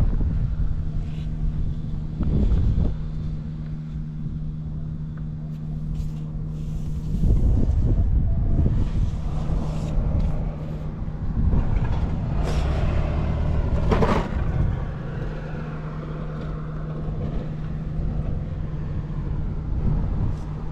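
1992 Honda Jade 250's four-cylinder engine running at idle with a steady note, rising louder for a moment about seven seconds in and again around twelve to fourteen seconds in. It runs evenly, with no abnormal noise.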